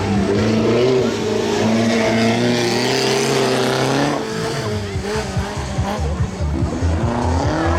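Stock-car engines running hard and revving, their pitch climbing and falling as the cars race on dirt. After about four seconds the sound turns into a rougher, pulsing low drone with another rev rising near the end.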